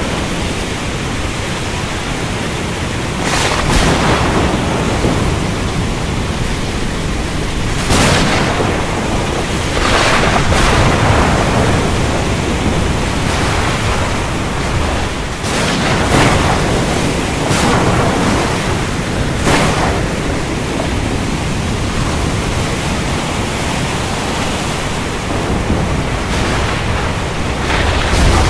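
Thunderstorm: a steady downpour of rain with several sharp thunder cracks, the loudest about 8 and 16 seconds in.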